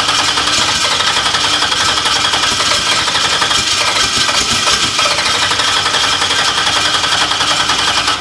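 Race car's new engine running loud and rough, a fast, ragged pulsing as it tries to catch and keep going. It is being flooded with fuel: a MAP sensor wired backwards is reading 50 pounds of boost, so the injectors flow far too much.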